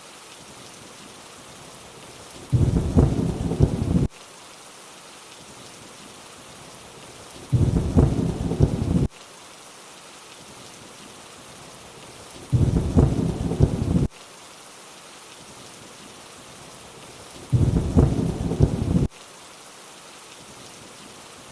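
Steady rain hiss with a deep rumble of thunder every five seconds, four times. Each rumble lasts under two seconds and cuts in and out abruptly, as in a looped recording.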